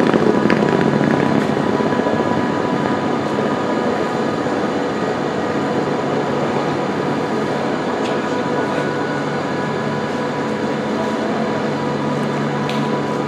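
Train running, a steady noise with a few steady tones over it, easing slightly in loudness over the first few seconds.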